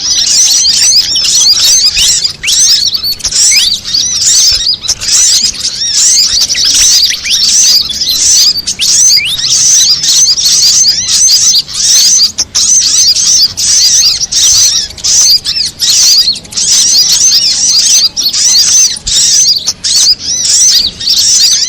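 Bird-lure mix of fantail calls combined with sunbird calls, playing on without a break as dense, rapid, high-pitched chirping and twittering.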